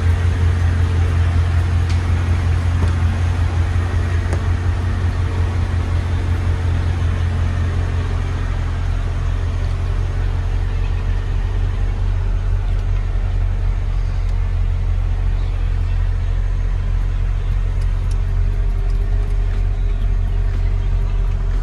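Mercedes CL55 AMG 5.4-litre V8 idling steadily through long-tube headers, Borla mufflers and no catalytic converters: a deep, even exhaust rumble with no revving.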